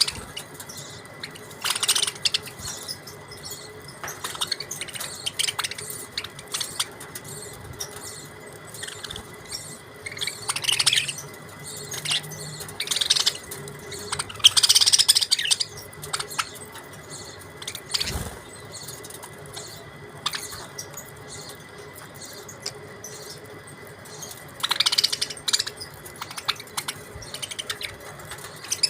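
Budgerigars chirping in scattered bursts a few seconds apart, busiest in the middle, over a faint steady hum.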